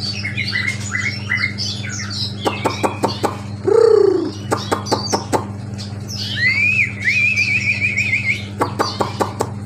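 Aviary of small caged songbirds chirping and twittering together, with one bird singing a fast trill a little over six seconds in. A single loud, lower call falls in pitch about four seconds in. Two quick runs of sharp clicks come around three seconds and near the end, over a steady low hum.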